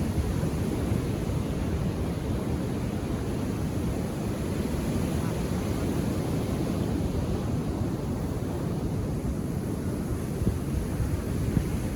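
Ocean waves washing onto the shore, a steady low rumble of surf without distinct breaks.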